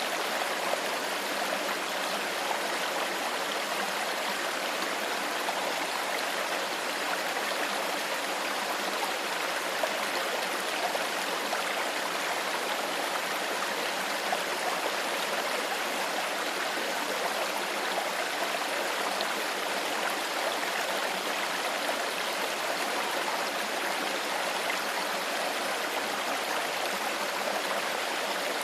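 A shallow stream flowing steadily, water babbling and trickling over stones in an even, unbroken rush.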